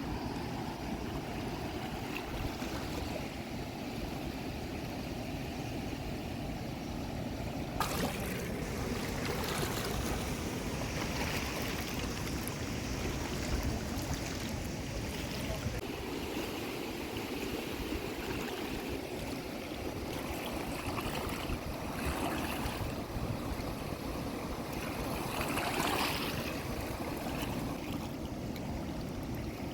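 Steady rush of flowing water, with a sudden knock about eight seconds in and several short louder noises after it, the strongest near the end.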